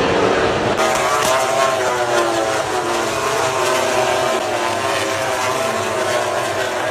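MotoGP race motorcycles' engines at high revs, several bikes at once, their pitch wavering up and down as they rev and shift. The sound changes character about a second in.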